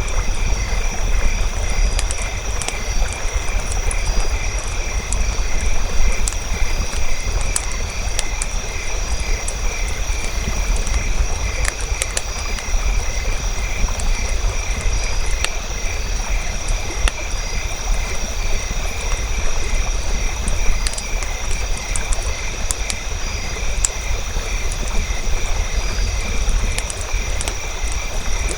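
Campfire burning, with scattered sharp crackles and pops over a low rumble, set against a steady, evenly pulsing night chorus.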